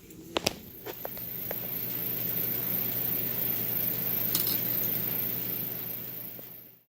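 Electric sewing machine running at a steady speed, its motor humming under a fast metallic clatter of stitching, after a few clicks at the start; the sound fades out near the end.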